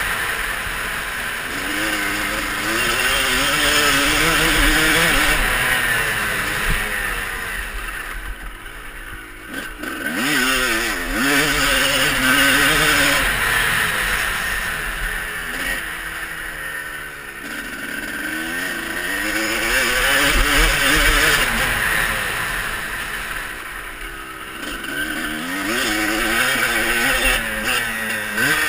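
Motocross bike engine revving hard and falling back, over and over through the ride, the pitch climbing in repeated sweeps with a steady rushing hiss underneath.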